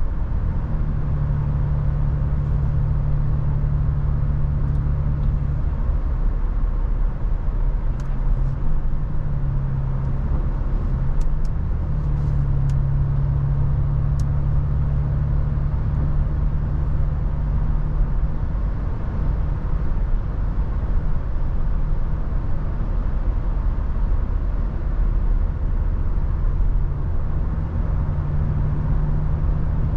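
Toyota FJ Cruiser's 4.0-litre V6 running at cruise, a steady low drone whose pitch shifts a few times as road speed changes. It sits under a constant rush of tyre and wind noise.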